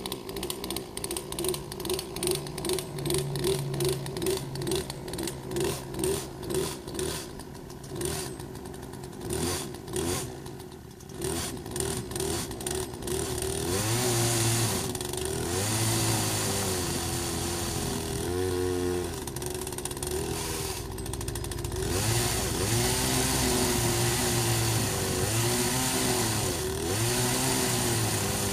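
Poulan 18-inch gas chainsaw's two-stroke engine running. For the first half it pulses steadily at about two or three beats a second. From about halfway it revs up and down over and over, its pitch rising and falling as it cuts into a tree stump.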